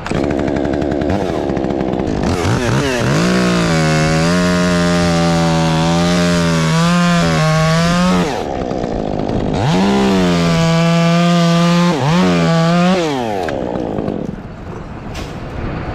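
Chainsaw run up to full throttle twice, each time held at a steady high pitch for several seconds before dropping back.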